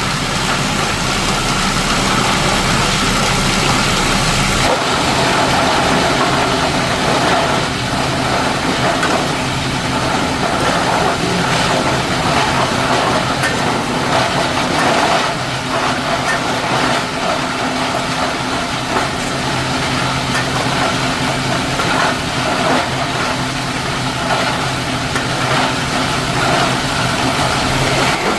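Plastic-processing machinery running with a steady mechanical hum and noise. About five seconds in, the deepest part of the hum cuts out suddenly while the rest keeps running.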